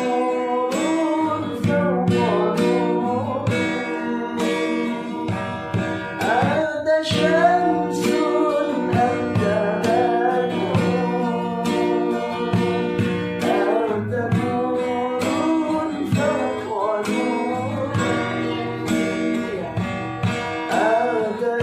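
Guitar played with steady plucked strokes, accompanying a singing voice that carries a gliding melody.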